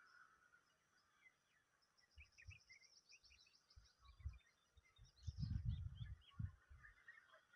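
A myna gives quick high chirps and calls, including a fast run of even notes, over a faint outdoor background. Low dull knocks on the microphone come several times, loudest a little past the middle, like the bird bumping or pecking at the camera.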